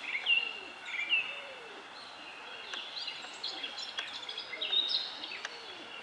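Small birds chirping: short, sweeping notes, loudest in the first second and a half, then a busier twittering of higher notes, over a faint steady hiss.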